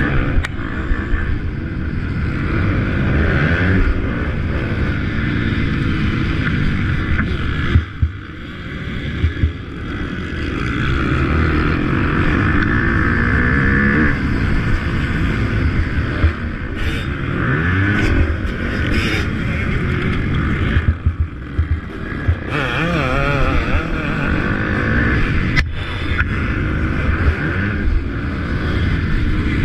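Motocross bike engines racing, their pitch rising and falling again and again as the riders open and close the throttle, with wind noise on the microphone.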